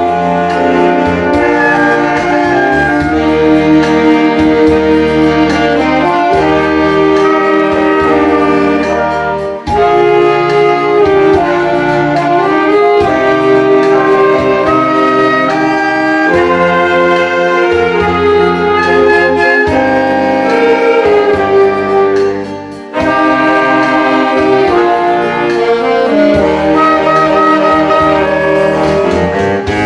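Saxophone ensemble playing a melody in harmony over a pre-recorded accompaniment-machine backing track with a steady bass. The music drops briefly between phrases twice, about ten seconds in and again a little past twenty-two seconds.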